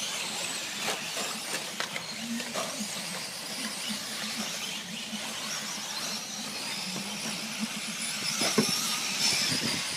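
Electric radio-controlled 4WD short course trucks racing on an off-road track: high motor whines waver up and down over a steady hiss, growing more prominent in the second half.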